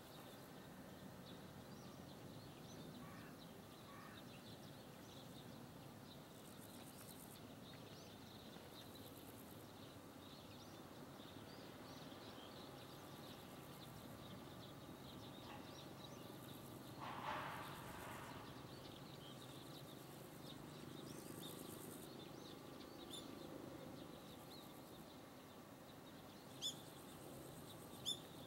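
Quiet outdoor ambience: a faint low rumble with scattered bird chirps, a louder bird call partway through, and two short sharp chirps near the end.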